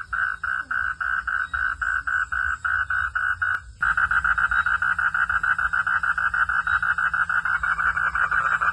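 Frogs calling in fast, steady pulse trains, about five pulses a second. The calling cuts off abruptly for a moment just before the middle, then resumes at a quicker pulse rate of about eight a second.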